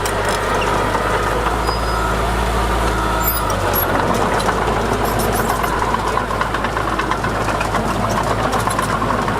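Heavy diesel engine of earth-moving machinery running steadily, with many small clicks and knocks from about halfway through.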